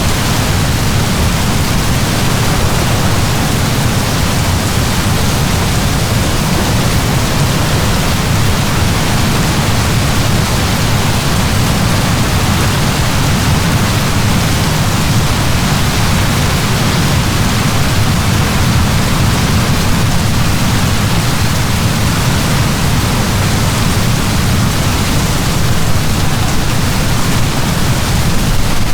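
Heavy rain falling in a steady, loud downpour, an even hiss with a deep low rumble underneath.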